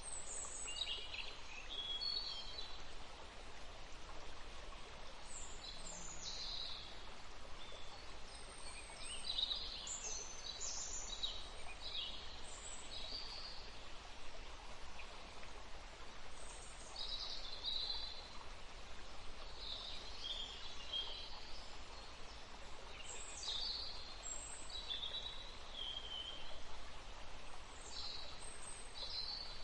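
Forest stream running steadily, with birds singing over it in frequent short chirps and trills throughout.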